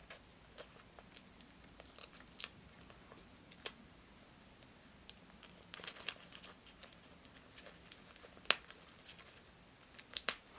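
Paper and stationery being handled while decorating a diary: scattered light taps and clicks, a short stretch of crinkling a little past the middle, and a sharp click about eight and a half seconds in.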